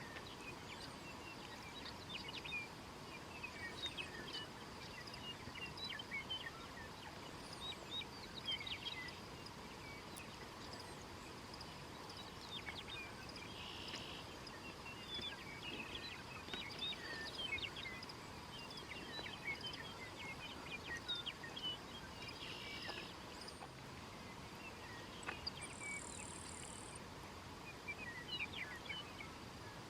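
Faint dawn birdsong on open prairie: many short chirps and calls from several birds, scattered throughout, over a steady high insect drone.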